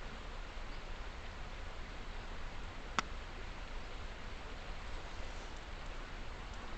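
Steady, even outdoor background hiss with a low rumble, broken by a single sharp crack about three seconds in.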